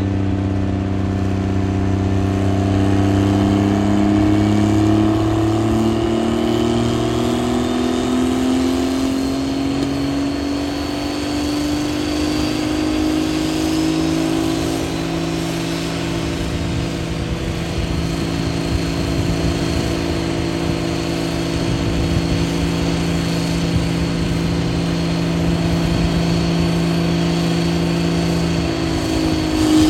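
Diesel truck engine running hard under load, its pitch climbing slowly for about fifteen seconds and then holding steady, with a faint high whistle rising alongside. This is typical of a pull on a chassis dyno.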